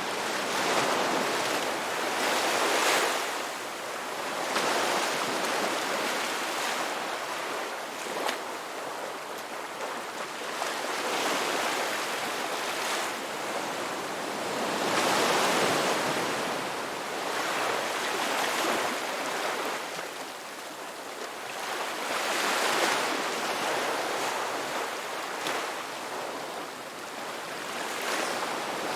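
Ocean waves breaking and washing on a beach, a steady surf rush that swells and eases every few seconds.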